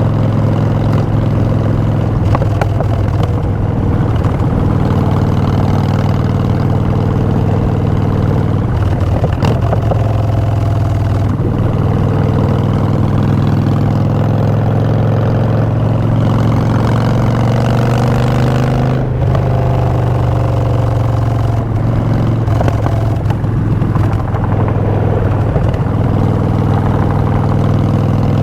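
Harley-Davidson Street Bob's Twin Cam 103 V-twin running through Vance & Hines Short Shots exhaust while riding. The engine pitch rises slowly, then drops abruptly about two-thirds of the way through, and climbs and falls again with the throttle.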